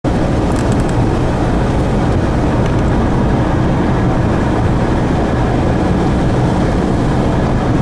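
Loud, steady low rumble of road and wind noise from a moving vehicle.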